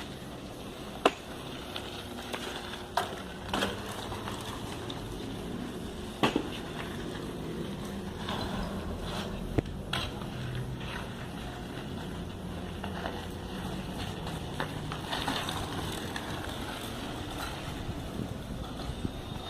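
Bicycle being ridden: a steady rumble of tyres and air, with a few sharp knocks and rattles from the bike.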